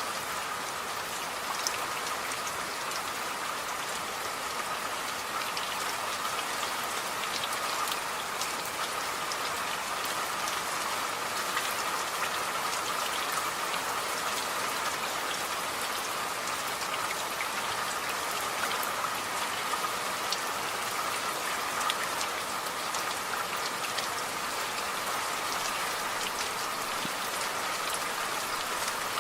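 Steady rain falling, with a dense patter of individual drops ticking on a surface.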